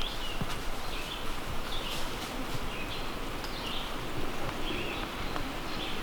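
Footsteps rustling through dry leaf litter on a forest floor. Short high chirps come about once a second throughout.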